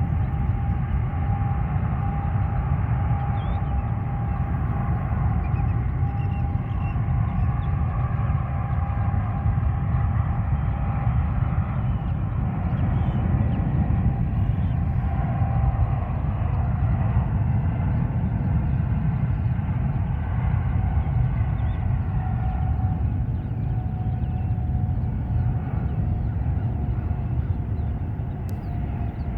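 Jet airliner engines running, with a steady low rumble and a single whine that slowly drops in pitch and fades near the end.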